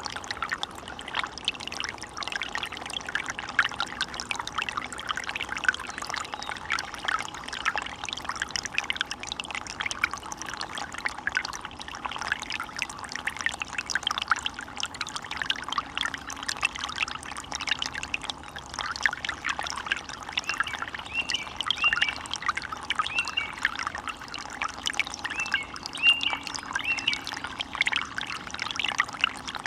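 Water of a small forest stream or brook burbling steadily over stones, a dense continuous trickling and bubbling.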